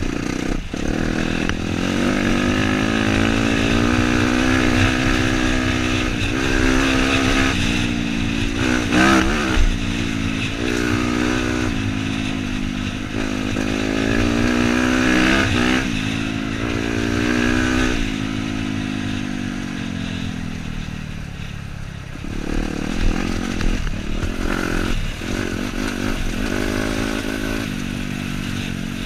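Dirt bike engine being ridden, its pitch rising and falling with the throttle over and over. Near two-thirds through it winds down, then picks up again rougher and more uneven.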